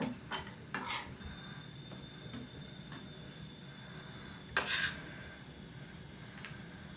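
Kitchenware handled: a few short clinks and scrapes in the first second, a louder clatter about four and a half seconds in, and a light tick near the end.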